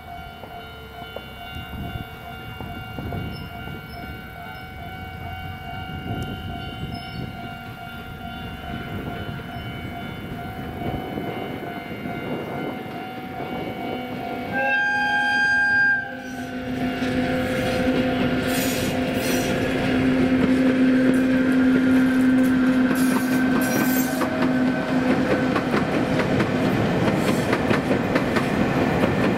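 An electric locomotive-hauled train on the Chichibu Railway sounds its horn once, for about a second and a half, around the middle. The train then draws close and passes, its rumble growing and its wheels clacking over the rail joints.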